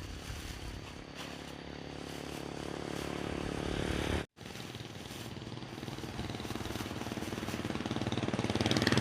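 A motorbike engine running and getting steadily louder as it draws near. The sound breaks off abruptly about four seconds in, then an engine builds up again and is loudest near the end.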